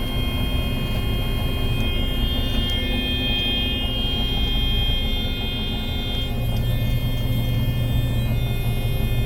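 John Deere 9500 combine running with its engine and threshing machinery engaged: a steady low rumble with a high, steady whine on top that fades in and out.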